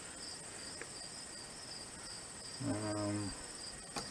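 Crickets chirping in a steady high trill throughout, with a man's short low murmur just before the end and a sharp click at the very end.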